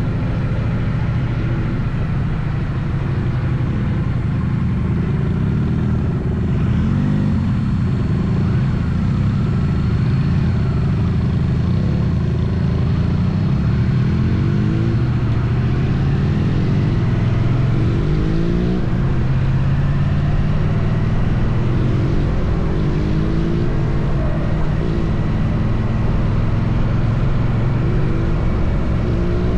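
Triumph Bonneville T100's parallel-twin engine running at road speed with wind noise, its pitch rising and falling several times as the throttle changes.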